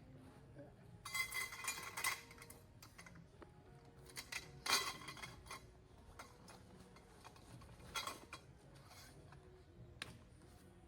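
Utensils and dishes clinking and knocking in camp cooking: a quick run of clinks about a second in, a single loud clink near the middle and a few more later.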